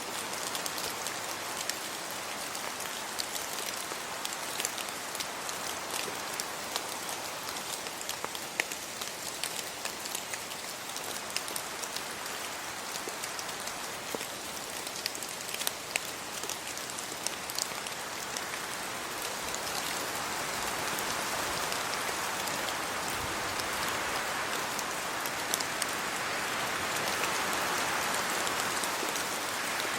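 Steady rain falling on leaves and a road, with many single drops ticking close by. The rush of the rain swells louder through the second half.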